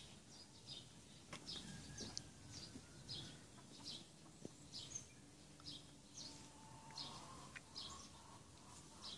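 Faint bird chirping: short high chirps repeated about twice a second over a low background hum.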